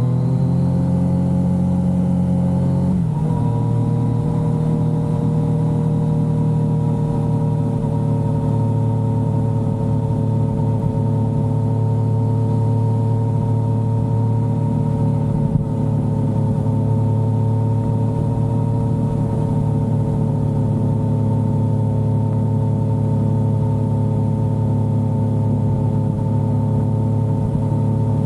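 Yamaha XSR900's inline three-cylinder engine under way on the road. Its pitch rises slightly, drops sharply at an upshift about three seconds in, then holds steady at a cruise.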